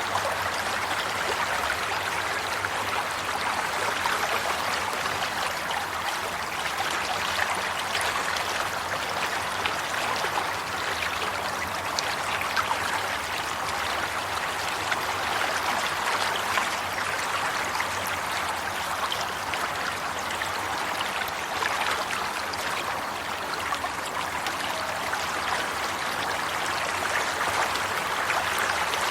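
Water flowing steadily in a stream, an even rushing with small splashes and trickles.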